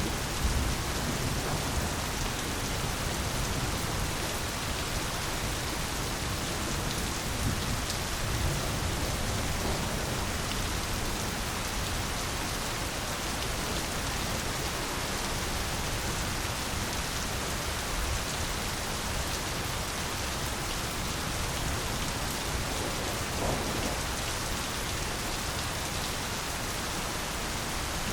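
Steady heavy rain falling on a surface as a dense, even hiss. Low distant thunder rumbles under it during roughly the first ten seconds.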